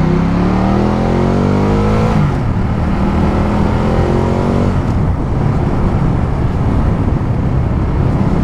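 Ducati Multistrada 1200's V-twin engine accelerating under way. Its pitch rises and drops sharply at an upshift about two seconds in, pulls up again and drops at a second shift near five seconds, then holds steady.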